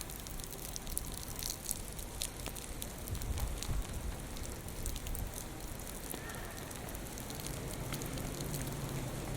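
Heavy typhoon rain falling and splashing on hard surfaces, with scattered sharp drop ticks, under a low rumble of gusting wind.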